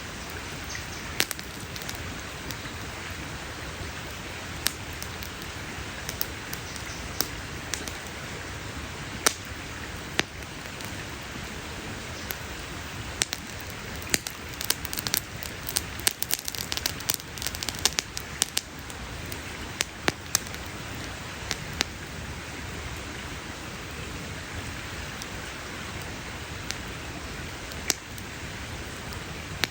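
Campfire crackling: scattered sharp pops over a steady hiss, with a dense run of crackles around the middle.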